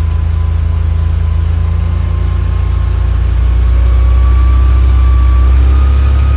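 Car engine with Bosch CIS (K-Jetronic) continuous fuel injection, warmed up, held at raised revs under throttle toward about 4,000 RPM. About three to four seconds in, the revs and loudness climb a little and then hold steady.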